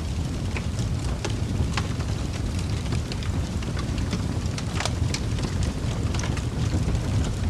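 Wood fire crackling in a fireplace: irregular sharp snaps and pops, several a second, over a steady low rumble of the flames, with one louder pop about five seconds in.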